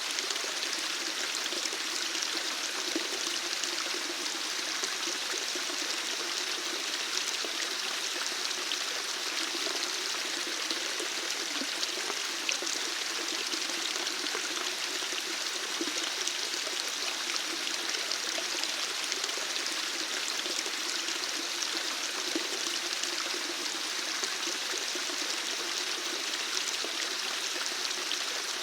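Running water: a steady, even rush of flowing water like a stream or small waterfall, with no change in pace.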